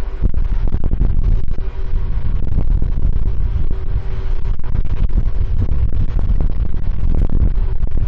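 Wind buffeting the microphone in loud, low, gusty rumbles, with a faint steady hum underneath.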